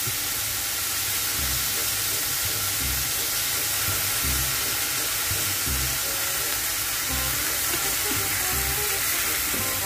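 Meat pieces sizzling steadily in hot oil in a frying pan as soy sauce is poured in, with faint background music.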